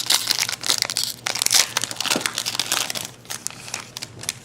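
Baseball card pack wrapper crinkling and tearing as it is opened and handled by hand, busiest in the first three seconds, then sparser.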